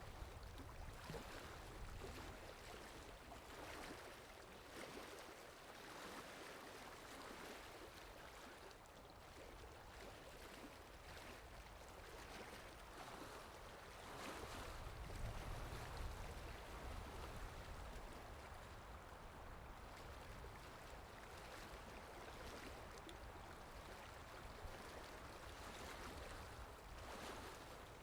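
Faint, steady rushing-water ambience from a water sound effect, rising and falling a little in level, with a low rumble swelling around the middle.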